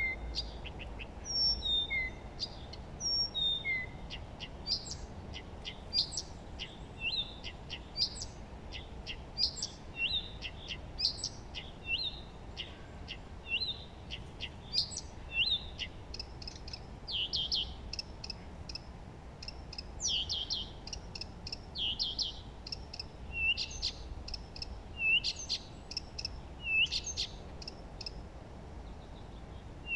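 Wild songbirds singing together: a dense mix of short chirps, trills and whistles, with a few clear whistles sliding down in pitch in the first few seconds, over a steady low background hiss.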